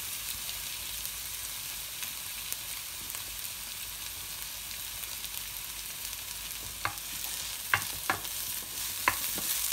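Chopped onion and garlic sizzling in hot oil in a non-stick frying pan, a steady high hiss. From about seven seconds in, a wooden spoon stirs them, with about five sharp knocks against the pan.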